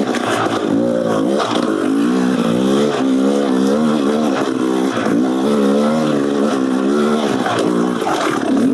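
Beta Xtrainer 300 two-stroke single with an FMF Gnarly exhaust, revving up and down over and over as the throttle is worked on a dirt trail, the pitch rising and falling about once a second.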